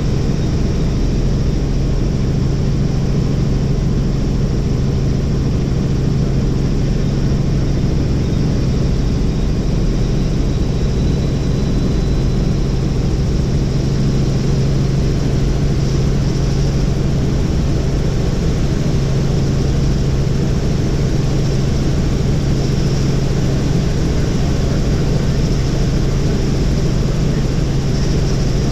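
Helicopter in flight: a steady drone of engine and rotor with a strong low hum, unchanging throughout.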